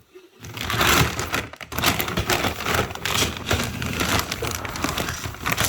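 Dry chicken feed being scooped and poured: a dense, steady rattling rustle of grain and pellets.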